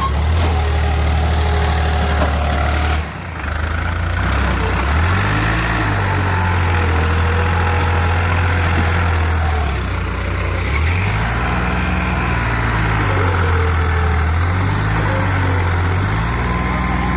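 Tractor's diesel engine working hard, its revs rising and falling again and again with a brief drop about three seconds in, as it strains to pull a trolley bogged down in a wet field.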